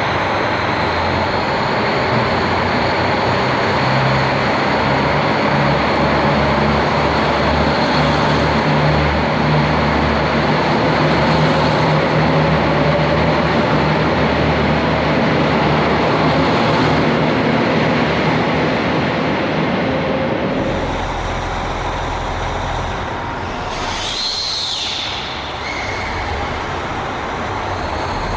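KiHa 261 series diesel multiple unit running with a steady low engine drone. After a cut about two-thirds of the way in, the sound is quieter, with a brief high sweeping sound near the end.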